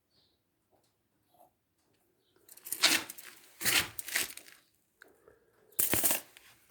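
Handling noise: three short bursts of rustling, scraping noise after a near-silent start.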